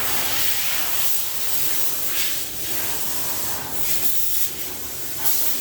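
A steady, airy hiss that swells slightly now and then.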